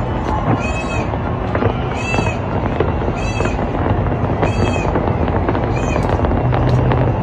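Fireworks display: dense crackling and scattered bangs over a constant wash of noise, with a short high rising-and-falling note repeating about once a second.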